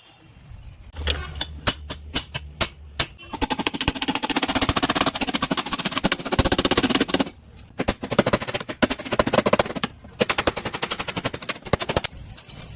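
Bodywork tools knocking rapidly on a car's sheet-metal quarter panel during accident repair. A few separate knocks come first, then two long runs of very fast repeated strikes with a short pause between them.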